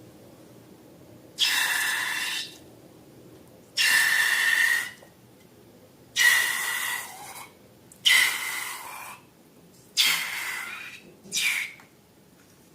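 Six short rushes of hissing air, about a second each with quiet gaps between, several carrying a faint whistle; the last two come closer together near the end.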